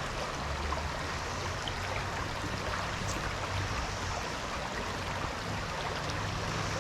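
Stream water running with a steady rush.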